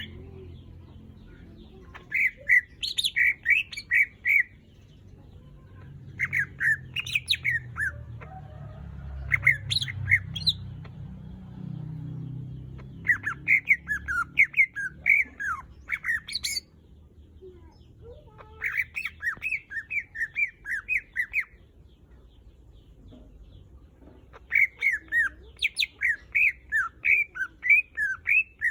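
Cucak ijo (green leafbird) singing: six bursts of quick, varied whistled notes, each lasting a couple of seconds, with short pauses between them.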